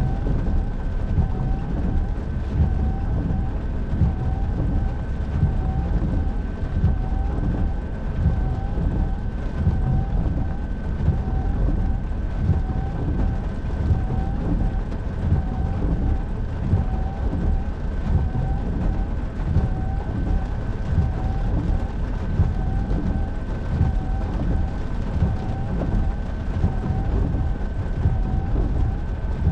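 Car driving at highway speed in heavy rain: a steady dense rumble of road and rain noise, with a thin steady whine above it and a short chirp repeating about once a second.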